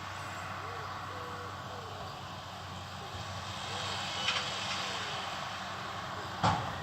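Steady drone of farm machinery engines working a harvest field, swelling slightly partway through. A light click about four seconds in and a sharp knock shortly before the end.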